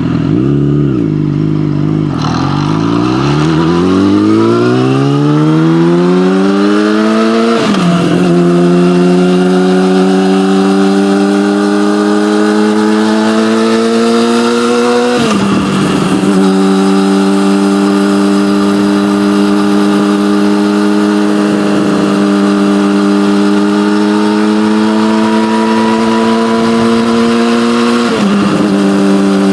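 Yamaha motorcycle with an SC-Project aftermarket exhaust pulling away. The engine pitch climbs steadily for about five seconds, then drops at an upshift. It then holds nearly steady with a slow rise, with two more upshifts, one about halfway through and one near the end.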